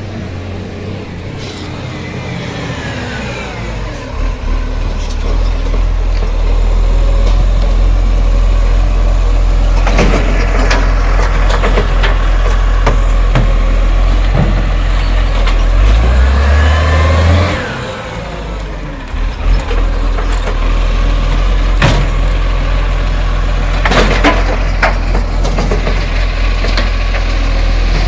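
Garbage truck running close by, its engine revving up with a rising whine twice, along with a few sharp knocks.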